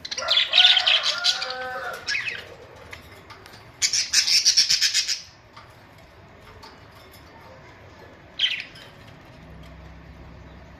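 Pet budgerigars calling in bursts: a loud chattering squawk with gliding notes in the first two seconds, a burst of rapid scratchy chatter about four seconds in, and a single short chirp near the end.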